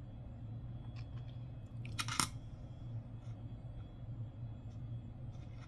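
Coins being handled: a few faint clicks and a brief clatter of metal about two seconds in, over a steady low hum.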